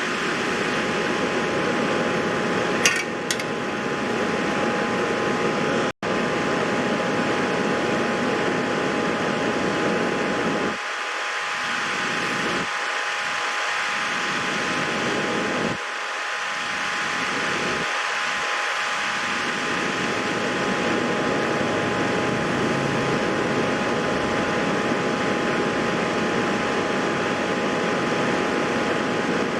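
Steady fan-like whir and hiss with a faint steady hum tone, broken by two sharp clicks about three seconds in and a brief dropout at about six seconds.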